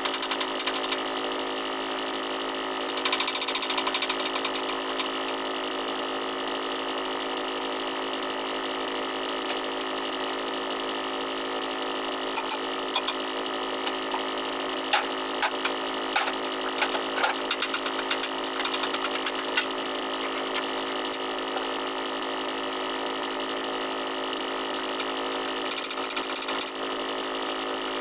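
Steady machinery hum with many overtones. Short louder bursts of noise come about three seconds in and near the end, and scattered clicks and crackles in the middle.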